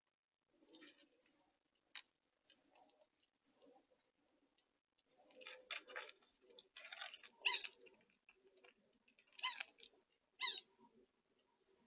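Small songbirds at a feeder giving scattered short, high chips and calls, with soft clicks and taps in between; clusters of calls near the middle and again toward the end.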